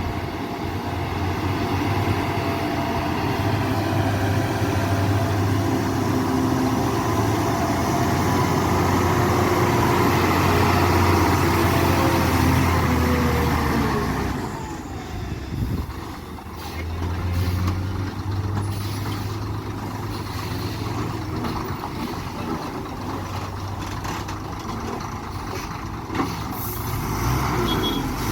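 Heavy loaded truck's diesel engine working under load, a steady low drone. Around 13 to 15 seconds in the engine note falls away and dips, then a low engine drone builds again.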